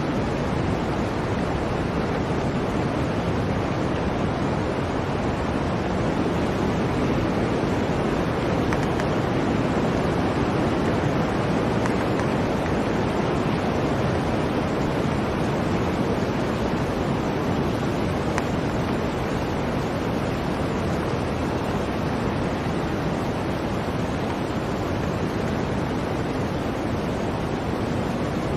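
Blizzard wind: a steady, dense rushing noise, deep and full, that swells slightly partway through.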